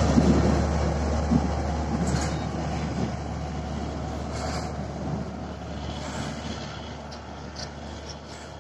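Bangladesh Railway passenger train's coaches rumbling over the rails as they roll away, the sound fading steadily as the train recedes, with a few faint clicks.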